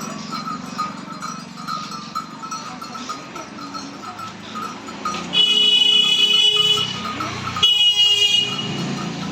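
A vehicle horn honks twice, a long blast of about a second and a half followed by a shorter one of about a second, over steady street noise with a faint, regular pinging.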